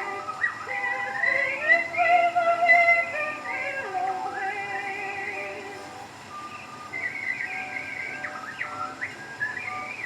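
Acoustic-era Victor 78 rpm record playing a small orchestra, with whistled mockingbird imitations above it: quick chirps, upward flicks and trills, over steady record surface hiss.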